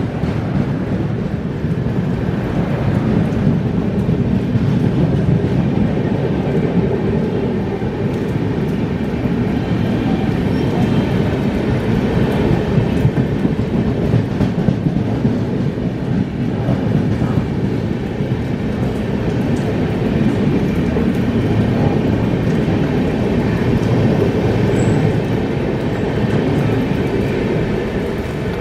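Train running past on the rails, a loud steady noise of wheels and coaches that holds without a break.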